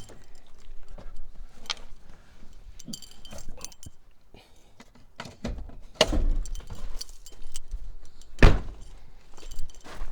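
Metal clinks and thunks as the hood of a 1990 Chevy pickup is released and opened, with heavier knocks a little past halfway and one sharp, loudest knock near the end.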